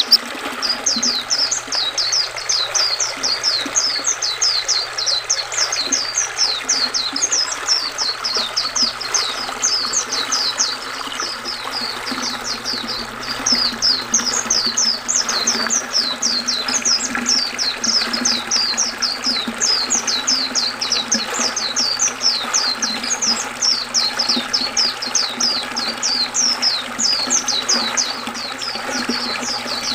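White-eye (pleci) singing a long, unbroken run of quick, high twittering notes, each sliding down in pitch, several a second. Under it runs the steady rush of river water.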